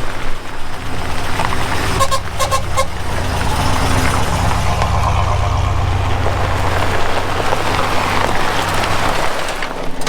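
A vehicle horn gives a quick run of short toots about two seconds in. Then a vehicle's engine runs and drives on, swelling and easing off near the end.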